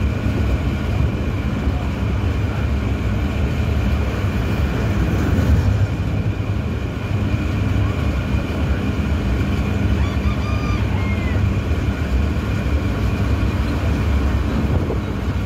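Passenger train running at steady speed, heard from on board: a continuous low rumble of the wheels and carriages on the rails.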